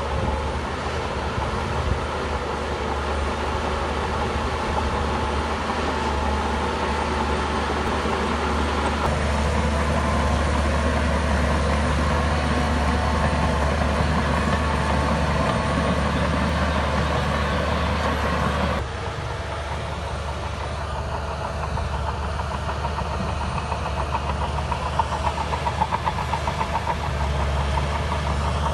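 A bulldozer's diesel engine runs steadily under load as the machine works dirt. The engine note gets heavier partway through and changes abruptly later on. A quick rattling run of pulses comes near the end.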